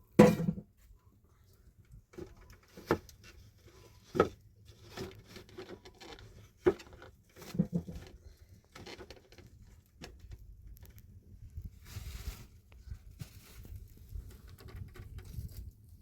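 Irregular knocks and taps, the loudest right at the start, with softer rustling and handling noise between them.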